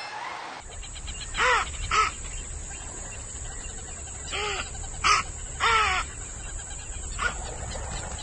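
A bird's harsh calls, about six short ones spaced out with pauses, over a steady low rumble.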